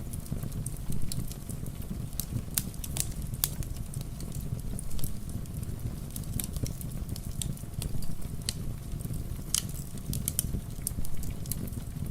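Fireplace wood fire crackling, with sharp irregular pops over a steady low rush of rain.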